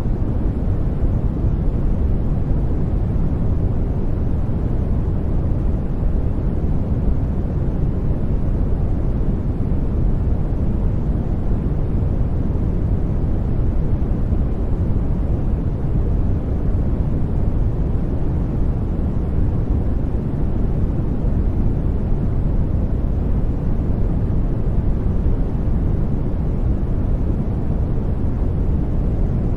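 Steady sleep-noise track: an even, deep rushing hiss, heaviest in the low end like brown noise, unchanging throughout.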